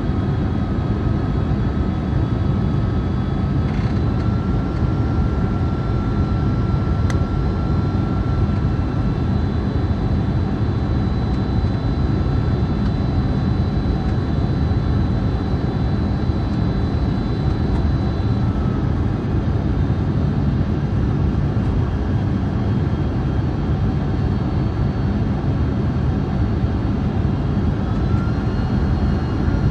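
Jet airliner cabin noise on approach: the steady roar of the engines and rushing air heard from inside the passenger cabin, with a faint high whine running through it.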